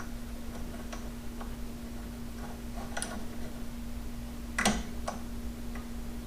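Scattered light metallic clicks and clinks of hand tools on a bolt and nut, about seven in all, the loudest a little past halfway, over a steady low hum.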